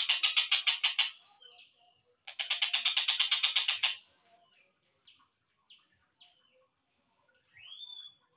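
Slowed-down recording of a tengkek buto kingfisher calling: a fast rattle of harsh notes, about ten a second, that stops about a second in, a second rattle from about two to four seconds in, then a few short chirps and a rising whistle near the end.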